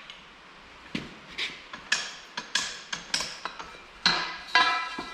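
Metal clanking and ringing as the bent metal tube and the tube bender's steel parts are knocked together while the bolt is loosened and the piece is freed: about seven or eight separate clanks, the loudest two about four seconds in.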